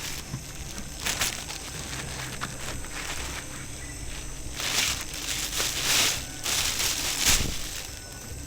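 Rustling and crinkling in several short bursts, loudest from about five to seven seconds in.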